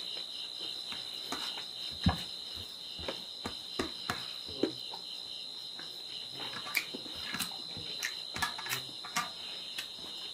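Close-up wet chewing and lip smacking of a mouthful of pork and rice: a string of short, irregular sharp clicks, the loudest about two seconds in. A steady high-pitched trill runs behind it.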